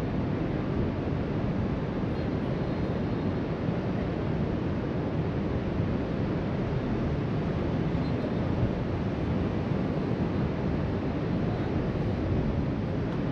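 Steady wash of ocean surf breaking along the shore below, mixed with wind buffeting the microphone.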